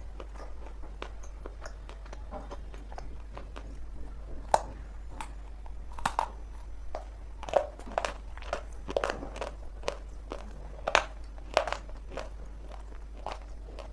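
Pieces of dry multani mitti (Fuller's earth clay) being bitten and chewed: irregular crisp crunches, a few sharper and louder than the rest.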